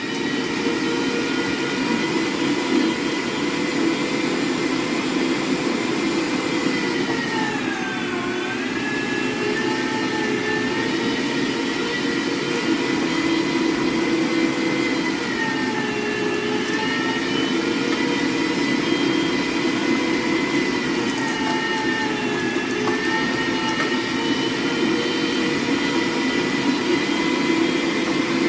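Electric meat grinder running with a steady motor whine, grinding chunks of pork shoulder. Its pitch sags briefly three times as the motor slows under the meat being fed through.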